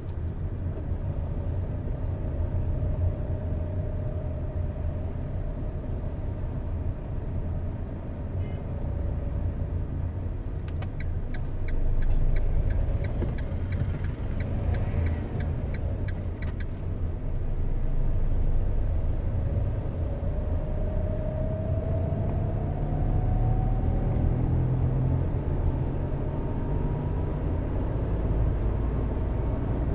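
Car engine and tyre noise from a car driving along, with the engine tone rising in pitch around two-thirds of the way in as it speeds up. In the middle, a rhythmic ticking, about three a second, runs for some six seconds.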